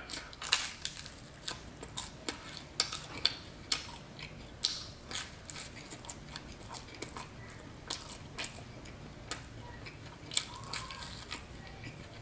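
A person chewing a mouthful of New York-style pizza close to the microphone. Irregular small crunches and mouth clicks, more frequent in the first few seconds.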